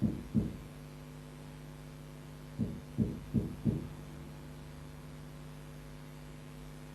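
Steady low electrical hum in a pause between spoken phrases, with a few soft low thumps: two just after the start and a cluster of about four a few seconds in.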